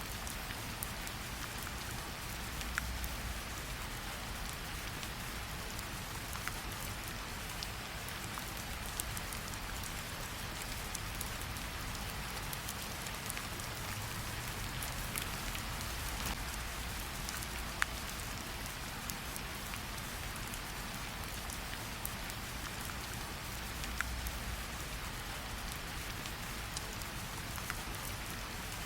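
Steady rain mixed with a crackling fireplace: an even hiss of rain with scattered sharp crackles and a low rumble underneath, and one louder crack about two-thirds of the way through.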